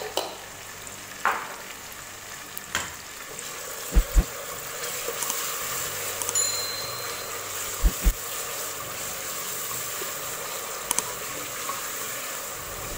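Tomato paste and chopped tomato sizzling in hot oil with fried onions, stirred with a wooden spatula in an aluminium pot. There is a steady hiss, with a few sharp clicks early on and two pairs of dull knocks about four and eight seconds in.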